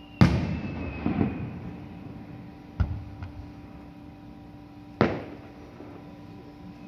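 Fireworks shells bursting: a loud boom about a quarter second in with crackling trailing off, a sharp crack near three seconds, and another boom about five seconds in. A whistle falling in pitch fades out in the first second and a half.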